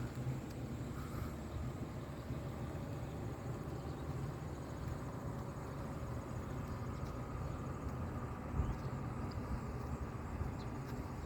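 Steady low rumble of a vehicle driving, with no sudden events.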